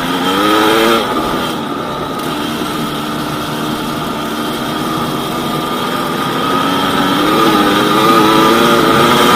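Yamaha DT200WR's two-stroke single-cylinder engine under way: it revs up in the first second, drops back to a steady run, then picks up revs again from about seven seconds in.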